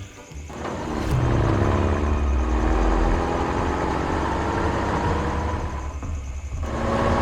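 A vehicle engine running steadily. It starts about a second in, dips briefly near the six-second mark, then picks up again.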